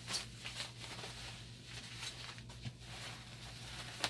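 Scattered light clicks and rustling from circuit boards and parts being handled, with one sharp click near the end, over a steady low hum.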